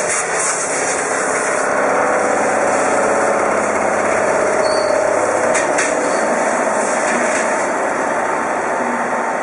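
A metal lathe running steadily in a machine shop, with a few short clicks about halfway through and once more later.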